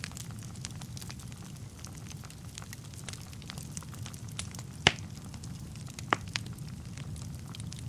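Wood fire burning in a fireplace: a steady low rumble with constant light crackling, and two louder sharp pops about five and six seconds in.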